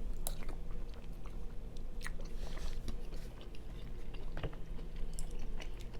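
A man chewing a mouthful of white chicken chili close to the microphone, with soft wet mouth sounds and small clicks, over a steady low hum.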